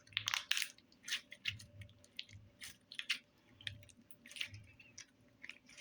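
Putty-like slime being squeezed and worked in the hands, making irregular wet squelches and sticky clicks, a few a second, with soft low thuds.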